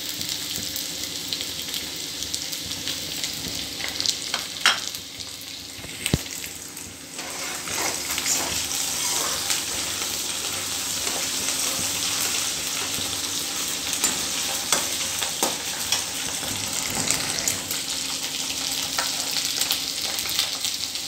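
Chopped onion, curry leaves and grated ginger sizzling steadily in hot oil in a metal kadhai, stirred with a steel ladle that clicks and scrapes against the pan a few times about four to six seconds in. The sizzle grows a little louder from about eight seconds in.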